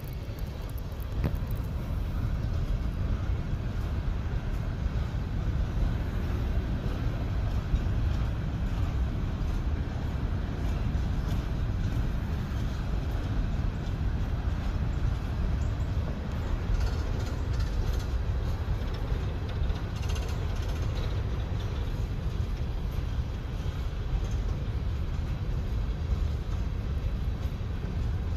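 Train rolling past: a steady low rumble.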